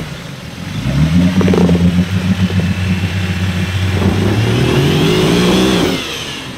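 Off-road vehicle's engine revving: it picks up about a second in, stays high and uneven under load for several seconds, and drops back near the end.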